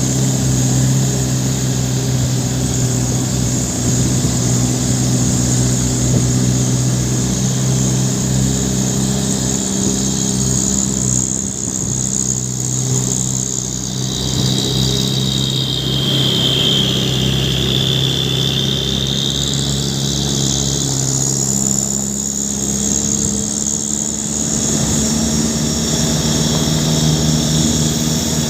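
Heavy truck engine running steadily, its pitch shifting up about three-quarters of the way through. A high whine dips and rises in the middle.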